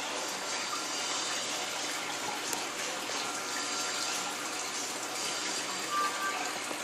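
Steady rush of running water in a freshwater aquarium, the tank's water circulating and splashing.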